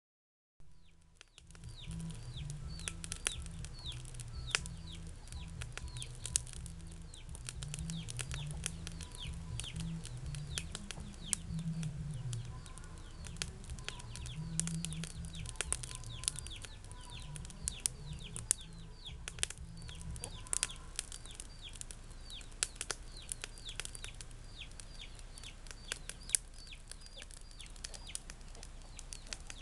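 Birds chirping over and over, many short falling chirps, with scattered sharp clicks and a low rumble of wind on the microphone that eases off in the last third.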